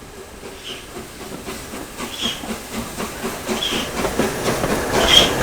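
Peppercorn A1 Pacific steam locomotive 60163 Tornado on the move, growing steadily louder, with a steam hiss and a rhythmic clatter. A short high squeal comes about every second and a half.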